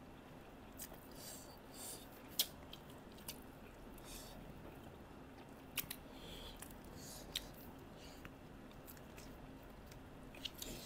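Faint chewing and mouth sounds of people eating rice and meat with their hands, with scattered small sharp clicks every second or so.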